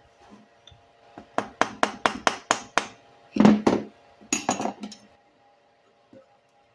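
About seven quick, evenly spaced hammer taps on metal, followed by two louder bursts of metallic clatter.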